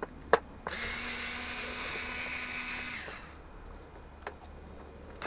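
A sharp click, then a small power tool's electric motor whirring steadily for about two seconds before dropping to a fainter hum.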